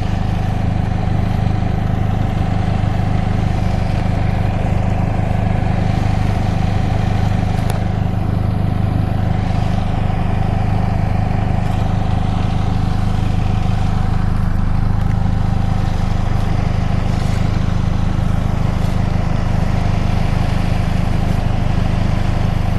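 Steady low drone of a motor vehicle running, with no revving or change in pitch.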